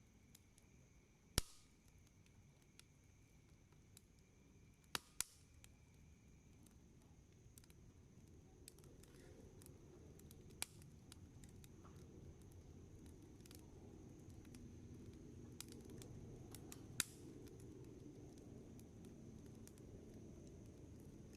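Wood campfire crackling: a handful of sharp pops, the loudest about a second in, two close together near five seconds and others near eleven and seventeen seconds, over a low, soft burning rumble that grows slightly louder.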